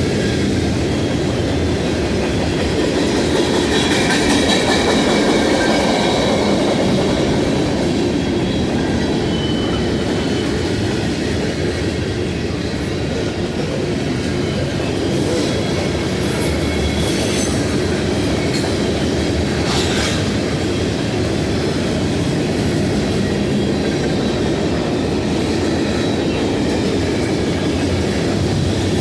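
Freight train cars rolling past close by: a steady loud rumble of steel wheels on the rail with clickety-clack from the rail joints. Wheels squeal briefly, about three to six seconds in and again about fifteen to twenty seconds in.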